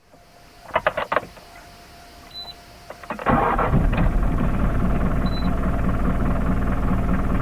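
Mitsubishi Delica Star Wagon engine being started: a few clicks and a faint steady tone, then about three seconds in the starter cranks briefly and the engine catches and settles into a steady idle.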